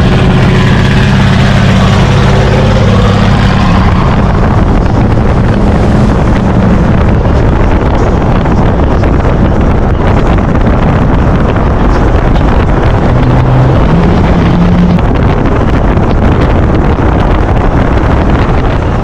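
Loud, steady vehicle noise with wind rushing over the microphone; a low engine drone is strongest in the first few seconds.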